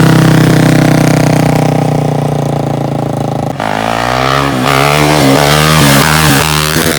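Quad (ATV) engine running hard at steady revs, then, about three and a half seconds in, the throttle is blipped so the revs rise and fall several times in quick succession.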